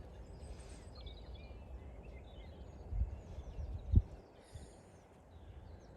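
Faint bird chirps over a low steady rumble, with two soft low thumps about three and four seconds in.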